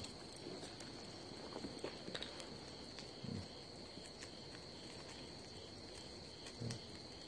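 Faint, steady high chirring of crickets, with scattered small crackles from the wood fire and two soft low thumps, about three seconds in and near the end.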